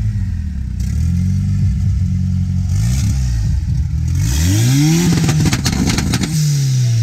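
Car engine running at steady revs, then revved hard about four seconds in. At the top of the rev it gives a rapid crackle of pops with a hiss for about a second, and then the revs fall away again.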